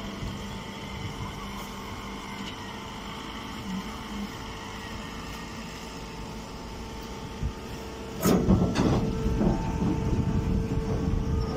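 Hydraulic straw baler press running with a steady motor and pump hum, then about eight seconds in a louder spell of clattering and knocking that lasts a few seconds.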